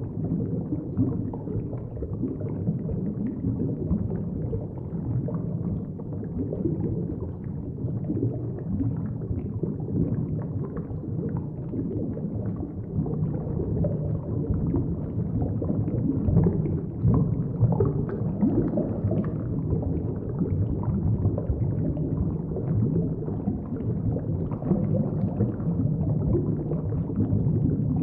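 Muffled, steady low rumble and gurgle of moving water picked up by a camera microphone submerged underwater, with faint crackling over it.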